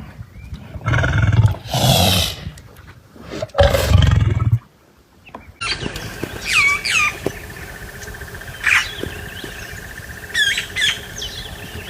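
A lion roaring twice, deep and drawn out. Then, after a cut, birds give short falling chirps over a steady high-pitched trill.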